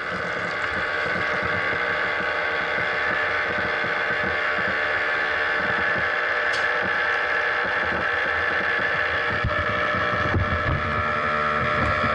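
RC outrigger racing boat's motor running at a steady high whine, picked up by a camera mounted on the boat, with the hull slapping the water in irregular low thuds.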